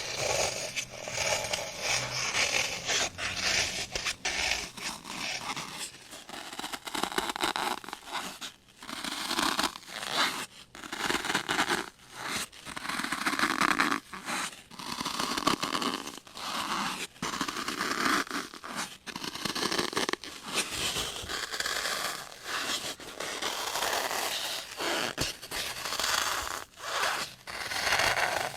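Close-miked scratching and scraping on objects in quick repeated strokes, with crinkly, tearing textures, coming in bursts with brief gaps.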